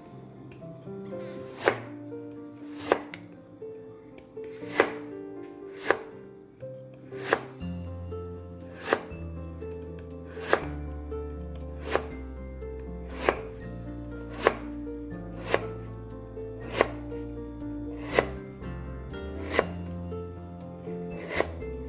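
Kitchen knife cutting through radish and striking a cutting board in slow, evenly spaced strokes, about one chop every second and a half, with background music.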